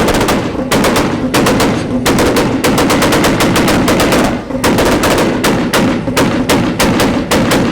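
A car engine held against a two-step launch rev limiter, its exhaust banging and crackling in a rapid, loud string of pops over the engine's buzz, with a brief break about four and a half seconds in.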